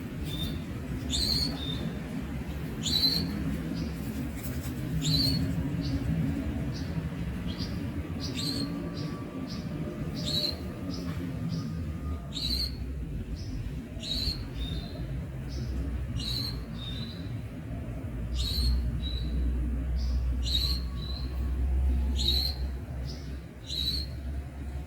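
Young Javan munia giving short high chirps, repeated about every one to two seconds, over a low background rumble.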